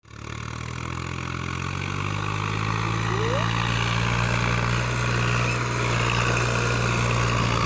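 Tractor diesel engine running steadily at an even low pitch, growing louder over the first second or two.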